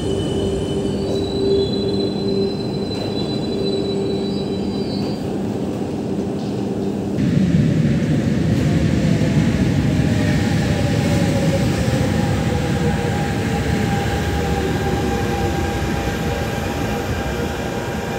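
Double-deck RER commuter train pulling into an underground platform. A louder rumble of wheels on rail comes in about seven seconds in, then the electric traction whine falls steadily in pitch as the train brakes to a stop. Before that, a steady hum with high whining tones.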